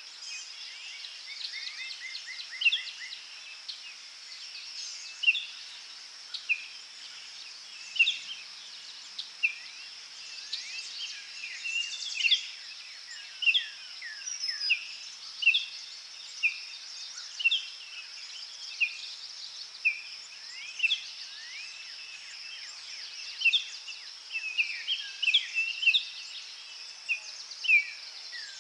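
Forest birds singing, with short sharp descending notes repeated about once a second and a quick trill of notes near the start, over a steady high insect drone.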